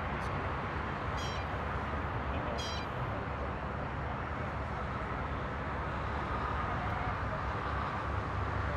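Steady outdoor background noise with a low rumble, and two short high-pitched chirps about a second and a half apart.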